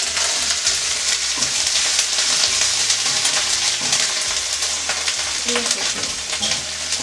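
Onion and garlic paste sizzling in hot oil in a steel kadai, a steady frying hiss, with short clicks and scrapes of a steel spatula against the pan.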